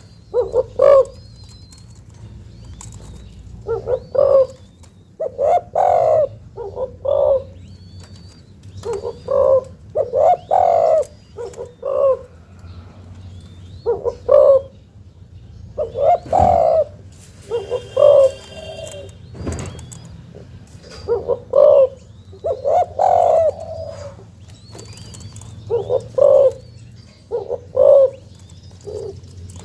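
Young captive-bred spotted dove cooing: deep phrases of a few coos each, repeated every few seconds.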